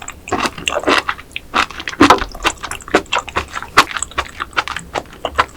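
Close-miked chewing of raw oyster sashimi salad: a rapid, irregular run of short, sharp wet mouth clicks.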